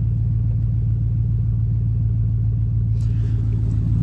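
GMC Sierra's 5.3-litre V8 idling steadily just after start-up, warming up and running smoothly on a freshly flashed tune.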